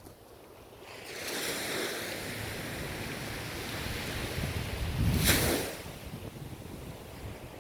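Ocean waves breaking on a shore: the surf builds about a second in, a wave crashes loudest around five seconds in, then the wash drains away.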